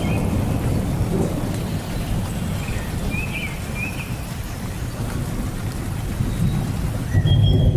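Steady rain falling in a forest, with a heavy low rumble underneath that swells near the end. A bird chirps twice about three seconds in.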